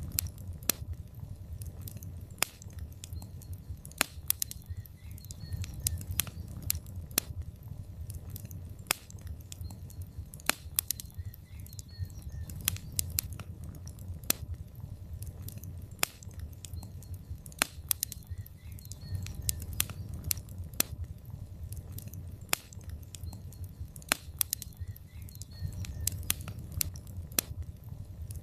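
Wood logs burning in a fireplace: irregular sharp crackles and pops over a low, steady rumble of the flames.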